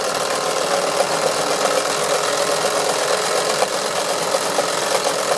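Wilesco D141 toy steam engine running steadily with a fast even clatter and a steady hum, driving its model workshop drill as it bores slowly into wood.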